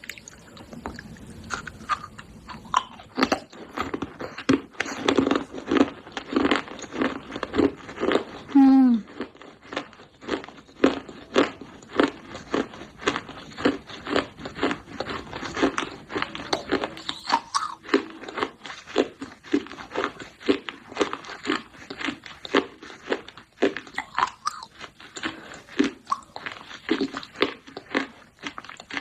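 Pieces of baked clay pot being bitten and chewed close to the microphone: crisp, gritty crunches several times a second throughout. A short falling tone, the loudest moment, comes about nine seconds in.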